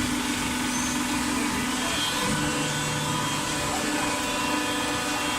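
Automatic waste-paper baling machine running: a steady machine hum with a constant low drone over a bed of motor noise. An extra lower hum joins for about a second and a half midway through.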